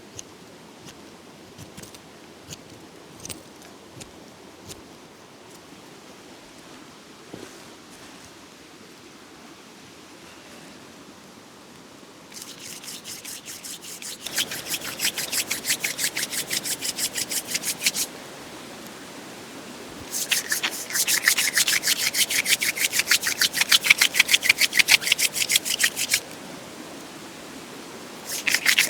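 Runs of rapid, rhythmic scraping strokes by hand, loud and even, starting about twelve seconds in, pausing twice and resuming, after a quiet stretch with a few faint clicks.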